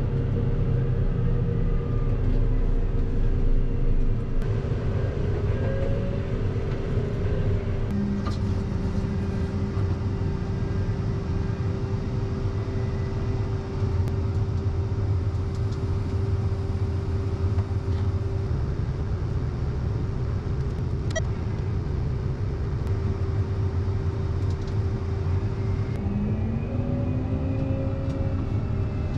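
A vehicle's engine running steadily while driving, with a steady whine over the drone that drops out for a few seconds past the middle.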